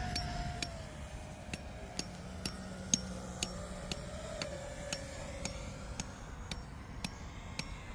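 Large RC model airplane's motor and propeller droning on a low pass, the pitch dropping about a second in and then wavering. Sharp regular ticks about twice a second run alongside.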